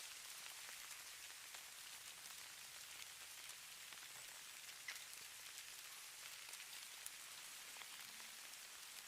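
Faint, steady hiss of falling snow, with scattered light ticks of flakes landing.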